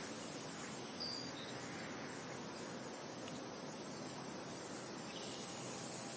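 Steady wind noise, an even rushing hiss, with a brief high chirp about a second in and a fainter one just after.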